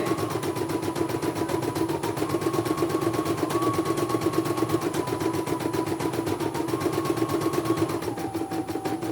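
Computerized embroidery machine stitching: a rapid, even needle rhythm over a motor hum, with a whining tone that steps up and down in pitch and settles lower near the end.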